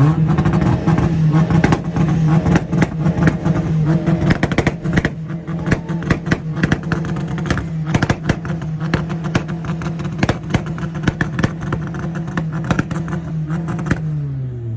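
Nissan's engine held on a two-step rev limiter: a steady, unchanging high note with rapid popping and crackling throughout. Near the end the revs are let off and the note drops away.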